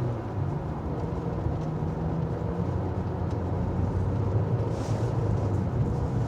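Steady drone of a car's engine and tyres, heard from inside the moving car.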